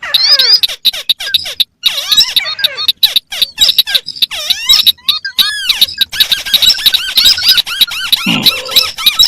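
Calls of several crake species played together: a dense, unrhythmic run of rapid arching chirps and clicks, with a lower note sweeping downward near the end.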